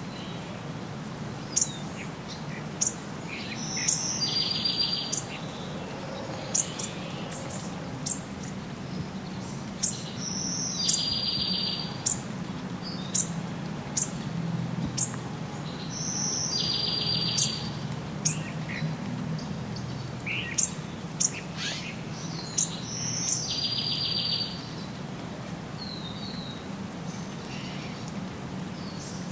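Birds calling: many short, sharp, high chirps that drop in pitch. A two-part call, a high note followed by a buzzy trill of about a second, repeats roughly every six seconds.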